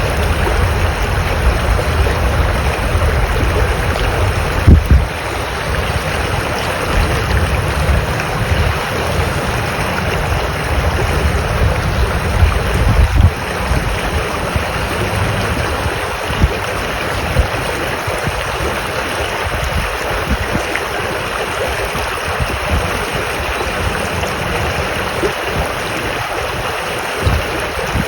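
Steady rush of running water from a stream, with low wind buffeting on the microphone that eases off about halfway through.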